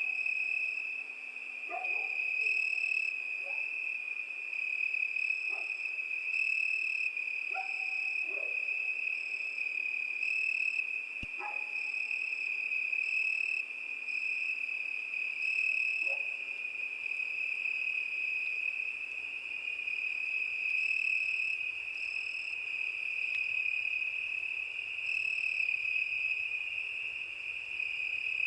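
Crickets singing: a continuous high trill, with a higher chirping pulsing on and off about once a second above it. In the first half, a few short, scattered lower calls from another animal.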